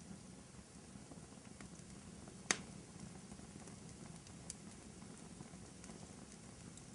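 Wood fire crackling in a fireplace: a low steady rumble of burning with scattered small pops, and one sharp loud crack about two and a half seconds in.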